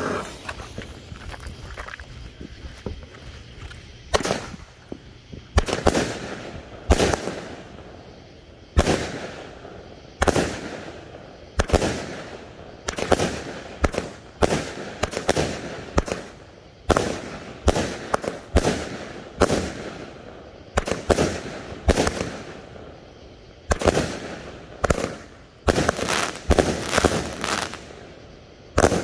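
A 200-gram, 25-shot firework cake firing its shots one after another: a sharp bang about every second, each trailing off, with several shots in quick succession near the end.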